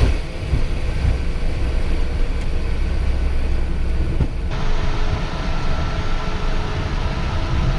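Steady low rumble and hiss of a vehicle running. The sound changes abruptly about four and a half seconds in.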